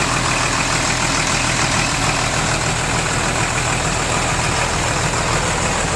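A tractor engine running steadily at a constant pitch and level while the tractor is under way.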